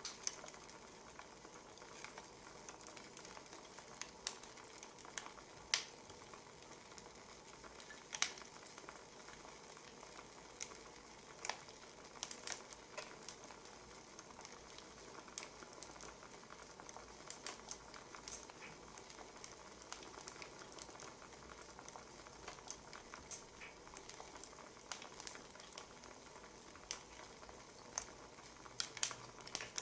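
Wood fire crackling: scattered, irregular sharp pops and snaps over a faint steady hiss.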